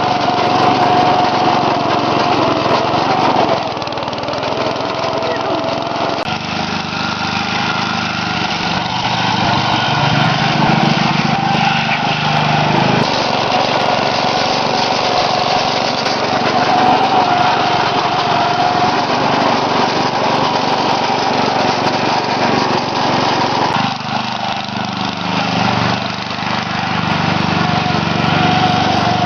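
Craftsman lawn tractor's 8 hp Briggs & Stratton single-cylinder engine running continuously, its sound dipping and shifting several times.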